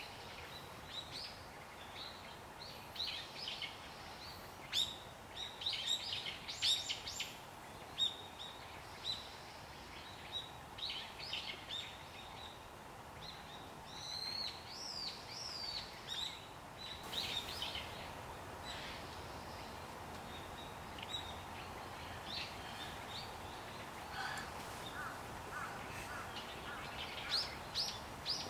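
Small birds chirping and calling in scattered short, high notes, with a few gliding calls midway and a short run of lower repeated notes near the end, over a faint steady background hiss.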